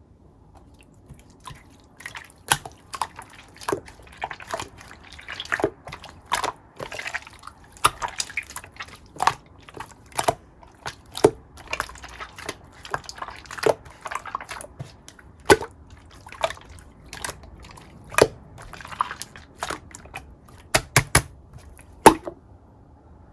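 Clear slime being squished and stretched by hand: wet squishing with sharp, irregular pops and clicks, one or two a second, starting about a second and a half in and stopping shortly before the end.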